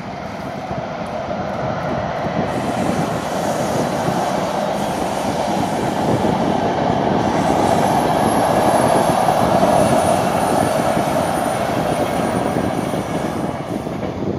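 Thello passenger train, a locomotive hauling coaches, rolling past: a steady rumble that builds to its loudest about two-thirds of the way through. A thin, high-pitched squeal from the wheels runs over it in the middle.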